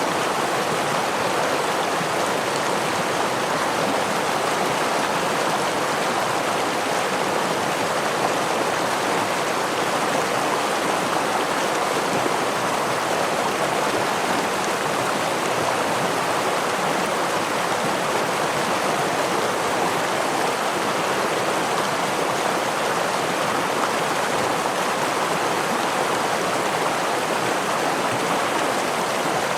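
Stream water running over rocks in a steady rush, with no breaks or changes.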